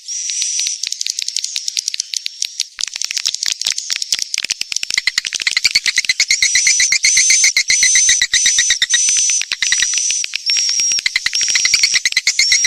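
Edible-nest swiftlet lure call track: dense rapid dry clicking with high twittering chirps. From about six seconds in, short high whistled notes repeat about twice a second over the chatter.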